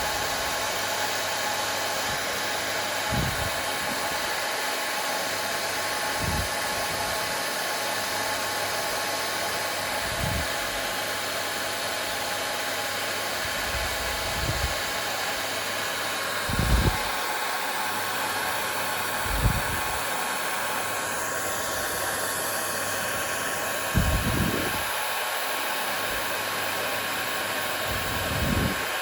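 Hair dryer running steadily with an even whooshing hum. Every few seconds there is a soft low thump.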